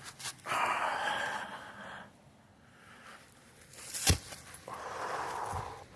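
A man breathing out heavily twice near the microphone, two long breathy exhales, with one sharp click between them.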